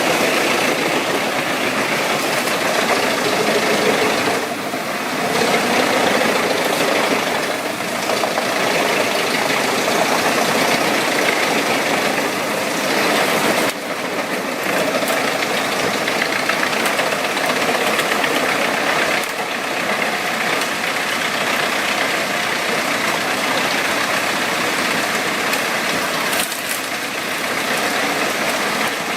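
Wood chipper machine running steadily with a dense mechanical clatter, dipping briefly a few times and cutting sharply about 14 seconds in.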